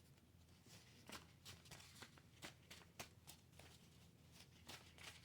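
Near silence: room tone with faint, scattered light taps and clicks.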